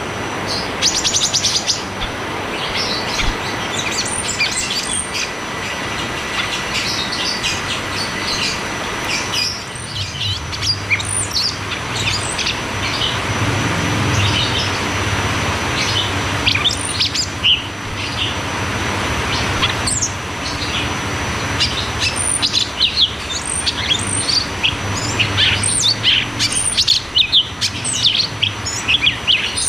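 Cucak cungkok bird singing a fast, dense run of high chirps and short rolling trills with sharp 'tembak' notes, over a steady background hiss and low hum.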